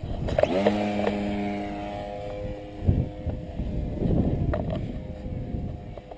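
Electric motor and propeller of a radio-control model plane winding up quickly about half a second in, then running at a steady whine, with gusts of wind on the microphone around the middle.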